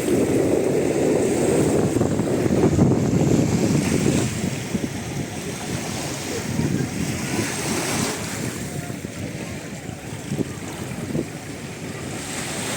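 Wind buffeting the microphone over the wash of surf, gustiest and loudest in the first few seconds, then easing.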